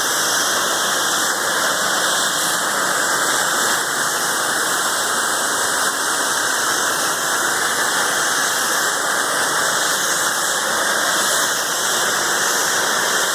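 Pressure washer spraying water at high pressure to rinse house siding: a steady, loud hiss of spray with no break.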